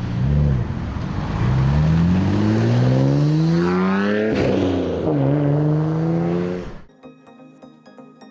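Car engine accelerating hard, its pitch rising steadily, dropping suddenly at a gear change about four seconds in, then climbing again before it cuts off near the end.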